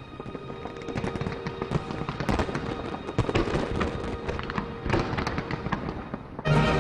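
Aerial fireworks going off in quick succession, a dense run of sharp overlapping pops and crackles, with music playing under them. Near the end the music jumps suddenly louder.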